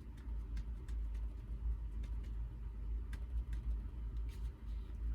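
Makeup sponge dabbing acrylic paint through a plastic stencil onto paper: irregular light taps, several a second, over a steady low hum.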